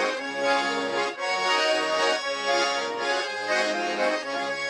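Accordion playing an instrumental break in a chastushka dance tune: rhythmic, pulsing chords and a melody, with no singing.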